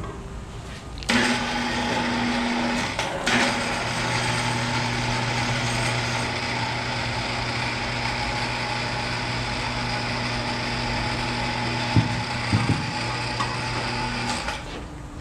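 Small power tool motor running steadily for about thirteen seconds, with a couple of sharp clicks near the end.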